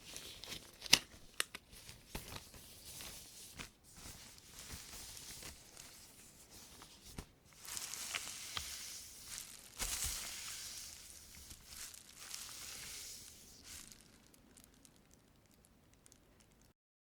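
Thin white plastic shopping bag crinkled and crumpled by rubber-gloved hands: sharp crackles near the start, softer rustling, then a longer spell of crinkling about eight seconds in that fades away before the sound cuts off near the end.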